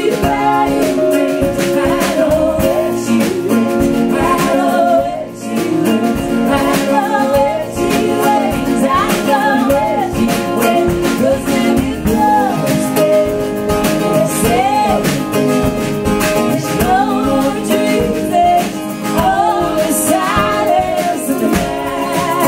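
A live acoustic song: singing over strummed acoustic guitar.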